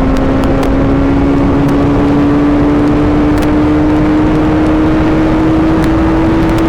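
Suzuki GSX-R750 sport bike's inline-four engine pulling at steady high revs, its pitch creeping slowly upward as the bike gains speed, over heavy wind rush on the microphone.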